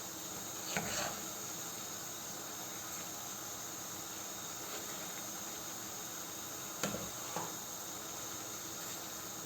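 Paella pan of rice, seafood and broth cooking on the stove with a steady hiss, broken by a few short knocks or scrapes of a utensil against the pan, once about a second in and twice around seven seconds in.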